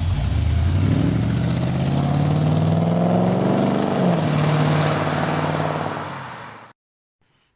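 Car engine revving. Its pitch rises over about three seconds, then holds steady at high revs before fading and cutting off sharply near the end.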